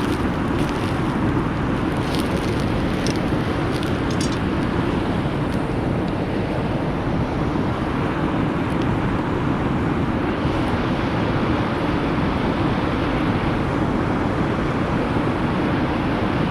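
Wood fire burning steadily under a stovetop moka pot, with a few crackles about one to four seconds in, as the water heats toward the point where the coffee comes up.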